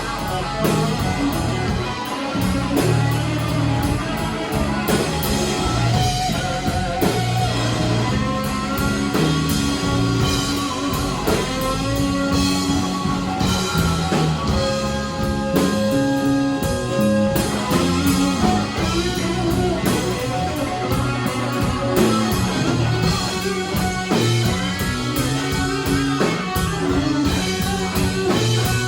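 Live blues band playing a slow blues, with an electric guitar taking a lead solo of long held, wavering notes over bass and drums.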